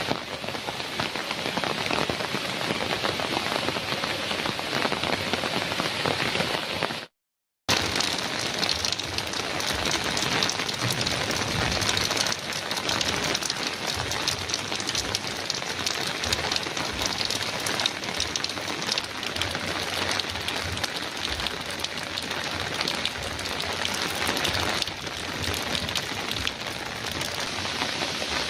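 Heavy rain falling steadily on a metal roof. It drops out to total silence for about half a second some seven seconds in, then resumes.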